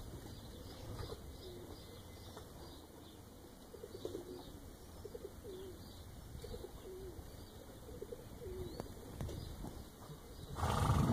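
A bird calling far off: a run of short, low notes from about four to nine seconds in. Near the end a loud rushing noise comes in.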